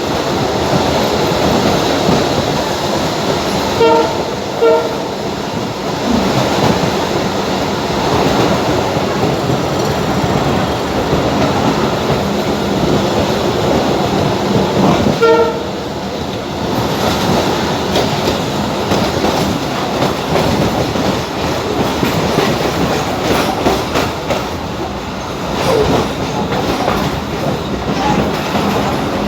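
Passenger train running along the track, heard from on board: a steady rumble with wheel clatter over the rails. Short horn toots sound twice about four seconds in and once more about fifteen seconds in.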